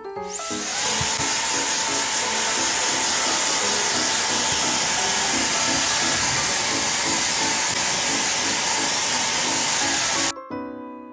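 ReFa Beautech hair dryer switched on: a high whine rises steeply as the motor spins up, then it blows steadily for about ten seconds and cuts off suddenly.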